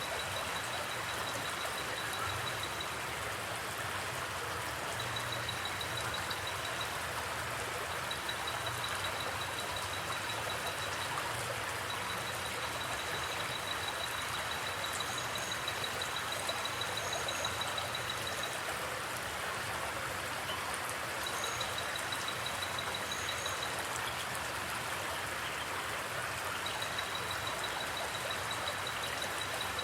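Steady rushing of a flowing forest creek. A high, fast-pulsing trill comes and goes in stretches of a few seconds, and a few brief higher chirps sound in the middle.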